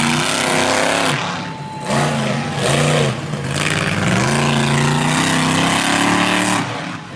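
Monster truck engine revving hard in several throttle bursts, its pitch climbing and falling, easing off briefly a second or so in and again near the end.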